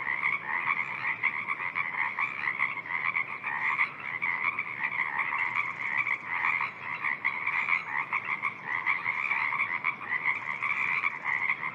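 A dense chorus of frogs calling in a spring wetland: many overlapping rapid, pulsing calls blend into a steady din with no break.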